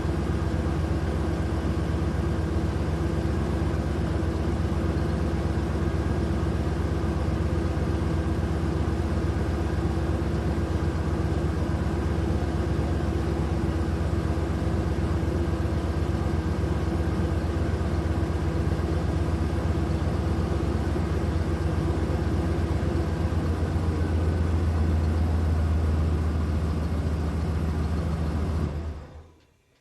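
Steady engine sound, a low idling drone that holds one pitch throughout and fades out quickly near the end.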